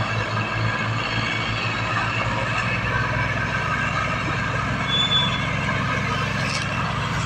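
Tractor diesel engine running steadily with a low pulsing rumble. A short high whistle-like tone comes in about five seconds in.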